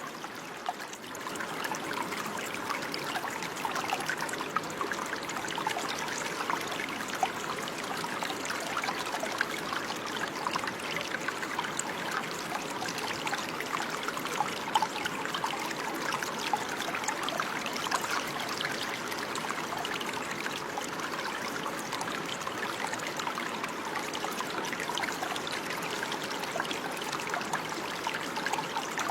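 Running water trickling and babbling steadily, with many small splashes over a continuous rush.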